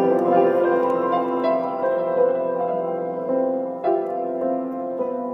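Background music: gentle piano notes played in a slow melody over sustained chords.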